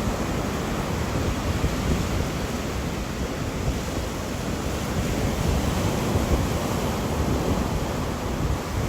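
Wind and rain: a steady, dense rushing noise, heaviest in the low end, with no distinct thunderclap.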